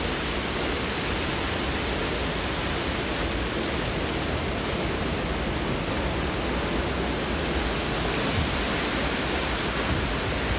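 Hurricane wind and rain making a steady, even rushing noise with no breaks.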